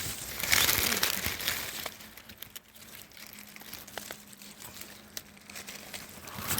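Dry fallen leaves rustling and crinkling as they are stirred or trodden on, loudest for about a second and a half near the start, then quieter with scattered crackles.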